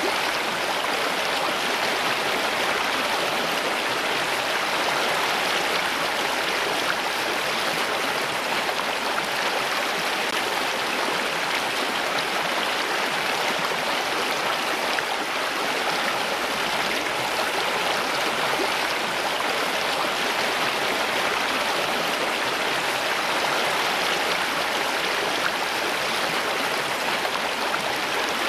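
Steady flowing water, as of a running stream, with no change in level.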